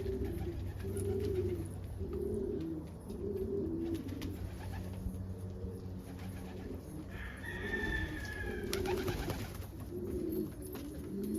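Domestic pigeons cooing: a run of low, warbling coos repeating about once a second.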